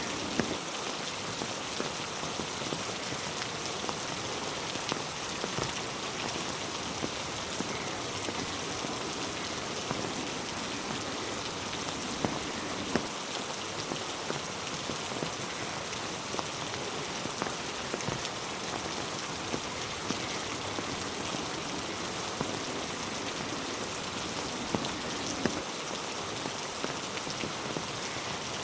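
Steady rain falling on a road and trees: an even hiss with scattered sharp ticks of nearby drops.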